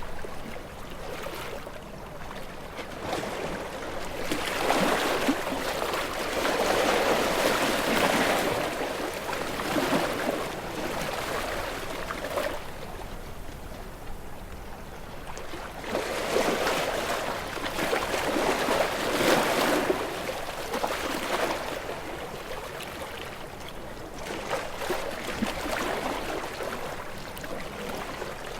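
Moving water sloshing and washing, swelling and fading in long surges about every ten seconds.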